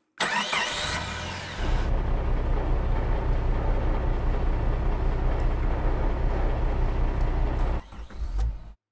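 Heavy vehicle engine sound effect: a burst of hissing at the start, then a steady low engine rumble that dies away near the end.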